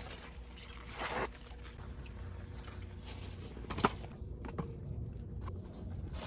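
Scattered light knocks and rustles of things being handled, with one sharp click a little under four seconds in, over a faint steady low hum.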